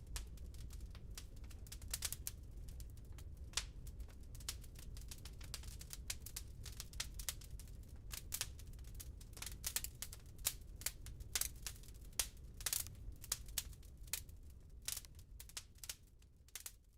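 Wood fire crackling in a fireplace: irregular sharp pops and snaps from the burning logs over a low steady rumble. The sound fades out near the end.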